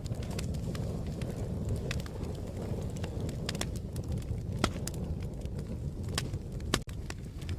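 Wood fire crackling: a steady low rumble of flames with irregular sharp pops and snaps, a few a second.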